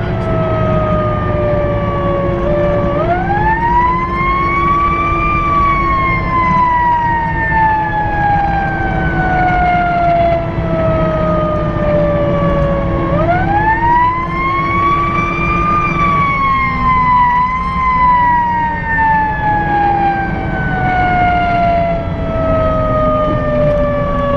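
Fire engine siren wailing, heard from inside the fire engine's cab: the pitch climbs quickly about three seconds in, then falls slowly for several seconds, and climbs and falls again about halfway through, over the truck's steady engine rumble.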